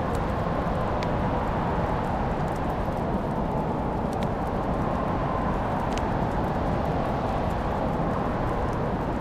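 Wood fire burning in a fireplace: a steady low rush with a few sharp crackling pops.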